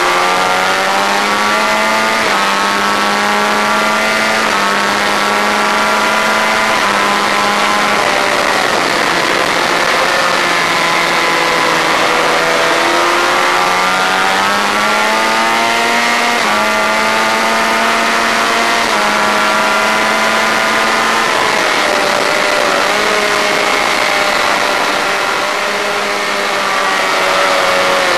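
Honda VFR400's V4 engine at high revs, heard from on board the racing motorcycle over steady wind noise. The pitch climbs and falls in long sweeps as the throttle is worked through the corners, and eases off near the end as the rider brakes and drops to second gear.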